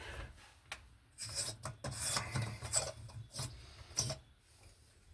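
Screwdriver scraping and grinding against a stripped screw head in irregular rasping strokes: the bit is slipping and chewing up the head instead of turning the screw.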